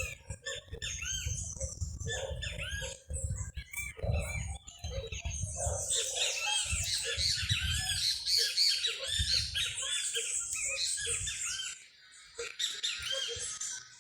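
A mixed chorus of many small birds chirping and singing at once, growing denser about halfway through, with intermittent low rumbling underneath.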